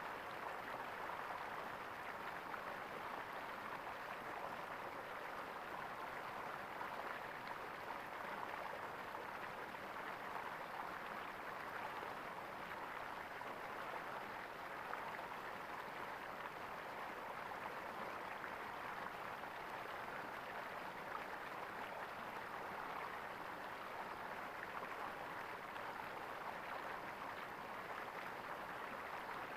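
Flowing water gurgling steadily, an even rush of water with no breaks or changes.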